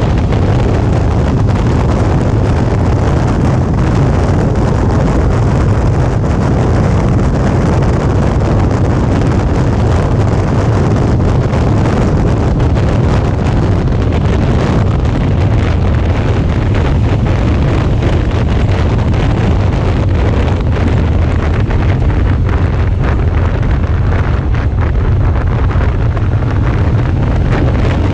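Wind rushing over an action camera's microphone on a moving Suzuki V-Strom 650 motorcycle, with the bike's V-twin engine running steadily under the wind noise.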